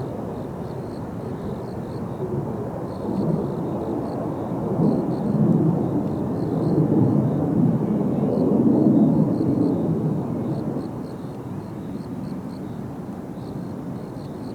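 Jet noise from Blue Impulse Kawasaki T-4 jets flying past: a low rumble that swells to its loudest in the middle and then fades away.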